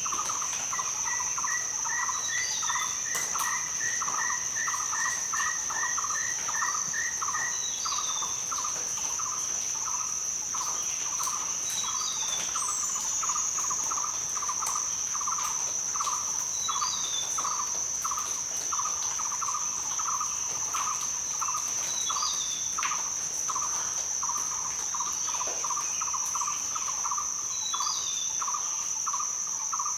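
Rainforest ambience: a steady high-pitched insect drone, with a lower call pulsing about twice a second. Birds chirp every few seconds over it, and a bird trills rapidly for the first several seconds.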